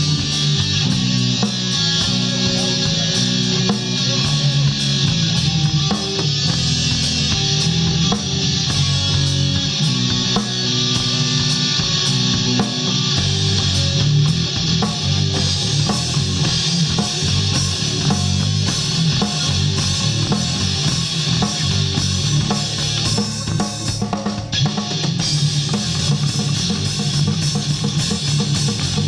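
Live rock band playing: distorted electric guitar over a steady drum-kit beat with bass drum and snare.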